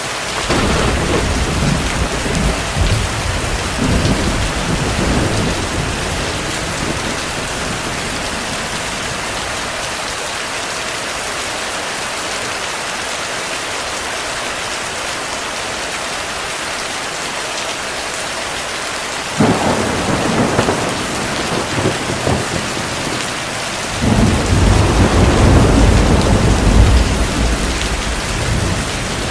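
Steady heavy rain with three rolls of thunder: a rumble at the start, a sharp crack about two-thirds of the way in that rolls on for a few seconds, and the loudest, longest rumble near the end.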